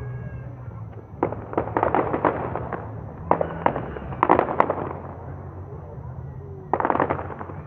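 Aerial fireworks going off in a few quick clusters of rapid crackling pops, with a steady low rumble underneath.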